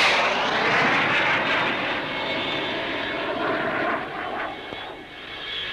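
Jet aircraft flying past: the noise peaks at the start, then drops in pitch and fades away over the next few seconds.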